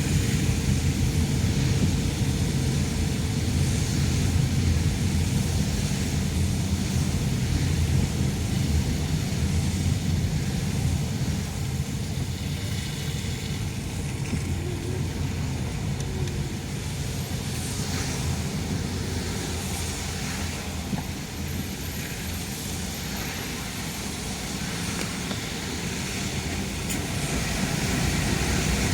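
Steady road noise of a car being driven, mostly a low rumble of engine and tyres, easing off for a stretch in the middle and growing louder again near the end.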